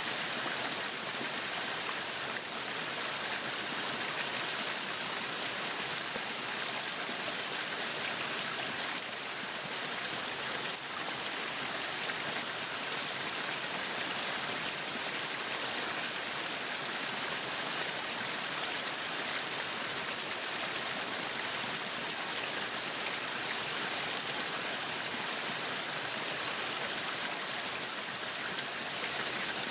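Meat sizzling on a yakiniku grill: a steady hiss that runs on evenly.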